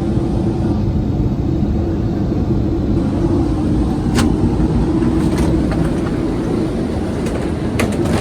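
Steady cabin noise of a Boeing 787-8 Dreamliner in flight: a low rumble of airflow and engines with a steady hum over it, and a few faint clicks from the cabin.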